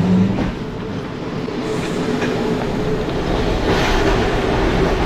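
Vintage tram running on its rails, heard from inside the car: a steady rumble of motors and wheels that grows louder toward the end.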